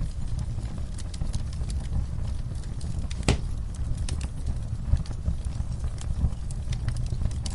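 Wood fire crackling in a fireplace: scattered sharp pops and snaps over a low steady rumble, with one louder crack about three seconds in.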